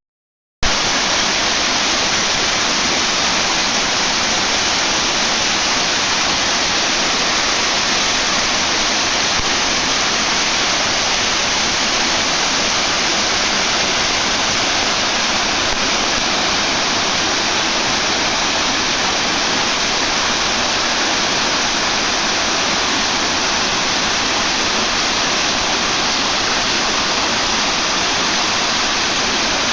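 Small waterfall, water pouring and splashing in a steady, loud rush. The sound cuts out completely for a moment about half a second in, then resumes unchanged.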